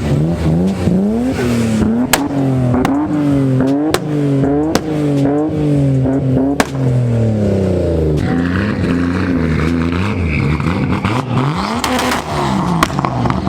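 A car engine being revved over and over, its pitch rising and falling about once a second, with sharp exhaust pops and bangs among the revs. After about eight seconds the revving eases to gentler swings, and a few more bangs come near the end.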